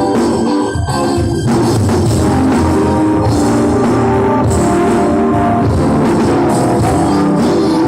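Live pop-rock band playing loudly, with drum kit and electric guitar; the full band comes in louder about a second and a half in.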